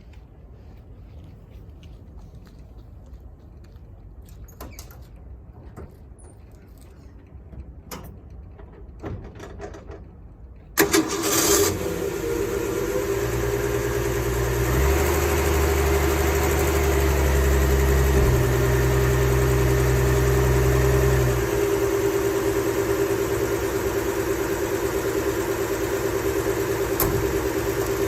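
Ford 240 inline-six engine cold-starting. After about ten seconds of near quiet with a few light clicks, it fires suddenly and runs louder and faster for several seconds, then settles to a steady idle.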